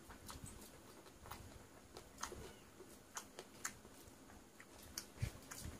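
Close-miked eating sounds: chewing of soaked rice, with scattered short wet mouth clicks and smacks, and a couple of louder ones near the end.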